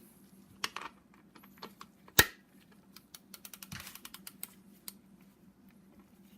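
Hand tools clicking and clacking on the engine during connecting rod bolt tightening: scattered small clicks, one sharp metal clack about two seconds in, then a quick run of light ticks.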